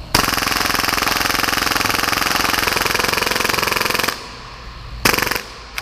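HPA-powered full-auto Tokyo Marui Hi-Capa airsoft pistol, tuned to about 30 rounds per second, firing one continuous rapid burst for about four seconds that cuts off suddenly as the magazine runs out early. About a second later comes one brief second burst.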